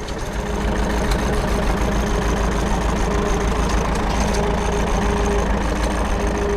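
An engine running steadily at a constant speed, with a steady hum that grows a little louder about half a second in.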